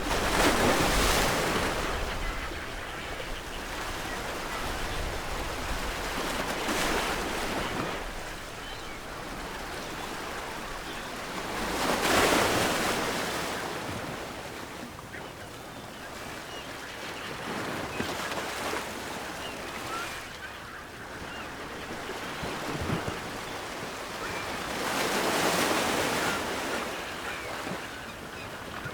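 Ocean waves breaking on a shore, in slow surges with steady surf wash between them; the largest breaks come about a second in, around twelve seconds, and near the end.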